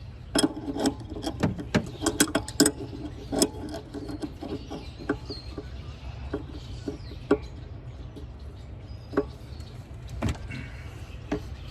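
Hand tools working a seized nut on an EGR valve: a quick run of sharp metal clicks and clanks in the first few seconds, then scattered single clicks, over a steady low rumble.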